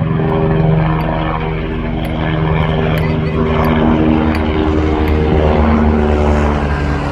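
Low-flying aircraft engine droning steadily, its pitch shifting up and down a few times as it passes.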